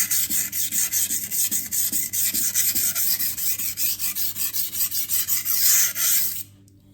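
Stainless steel Santoku knife blade being stroked back and forth on a 400-grit sintered diamond sharpening stone, a gritty rasp at about two or three strokes a second. It is the coarse stage that raises a burr along the edge. The strokes stop abruptly near the end.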